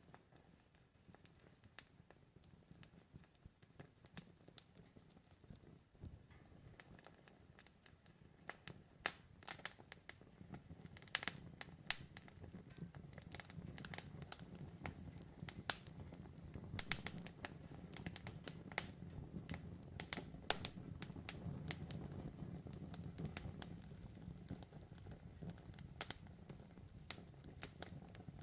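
Wood campfire crackling: irregular sharp pops and snaps over a low, steady rumble of burning flames. The pops come sparsely at first and grow busier after about ten seconds.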